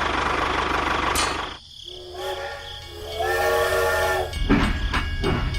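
A small engine running steadily, then cutting out. A pitched whistle-like blast follows, held for about two seconds in two parts, the second higher. Clattering knocks come near the end.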